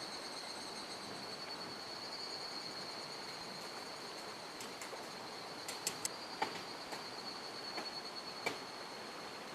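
A steady, high-pitched insect drone over the even rush of a mountain stream, with a few sharp snaps and clicks between about six and eight and a half seconds in.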